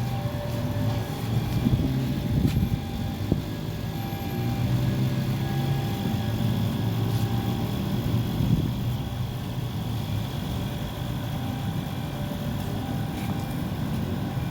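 A vehicle engine runs with a steady low rumble that swells and eases, as at a railway level crossing.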